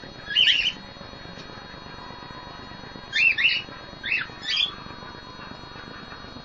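Cockatiel calling: short, high squawking chirps, one at the start, then a quick pair and two more about three to four seconds in.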